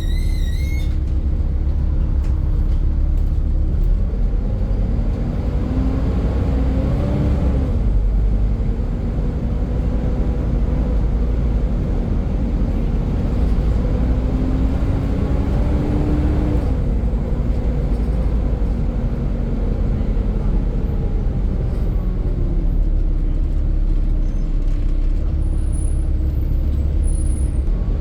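Volvo B7 Gemini double-decker bus running under a heavy low rumble, its engine note and a whine, the sound the uploader calls a loud 'hoover', rising twice as the bus pulls away and changes up, then dropping back each time. A short warbling beep sounds at the very start.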